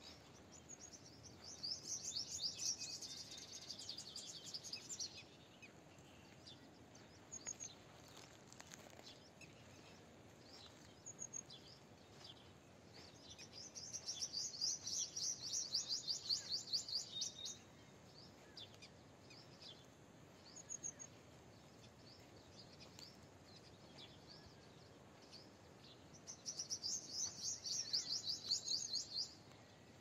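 A bird singing in three bouts of rapid, high trilled notes, each a few seconds long, near the start, in the middle and near the end, with a few short single chirps between them.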